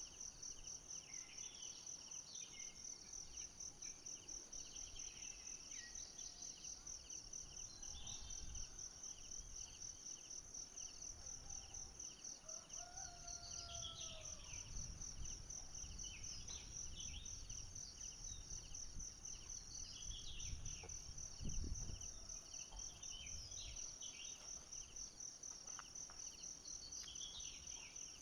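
Forest ambience: insects trilling steadily in a fast-pulsing high note, with scattered short bird chirps and a brief arched call in the middle. A low thump about three quarters of the way through.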